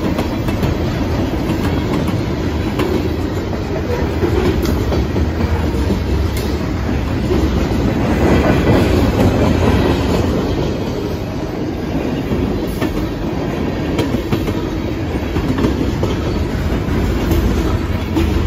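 Freight cars of a passing train rolling by at close range: a steady rumble of wheels on rail, with wheel clicks over rail joints now and then.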